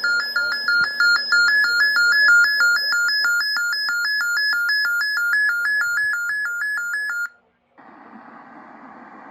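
Sangean H201 weather radio's alert alarm: an electronic tone switching rapidly back and forth between two pitches, signalling a received severe thunderstorm warning. It cuts off about seven seconds in, and after a brief gap a steady hiss from the radio's audio follows.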